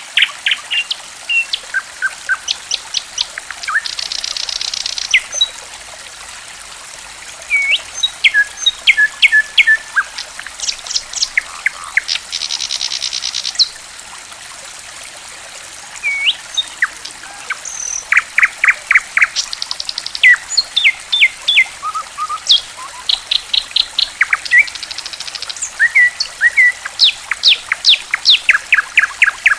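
Songbird calls, with quick repeated chirps and short buzzy trills coming in phrases with brief pauses, over a steady trickle of running water. It is a bird-and-water recording played to coax caged birds into song.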